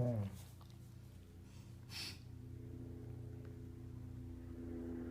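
Doberman growling low and steady, building slowly, the 'engine' noise he makes with a foot over his eye. A short sniff comes about two seconds in, before the growl settles.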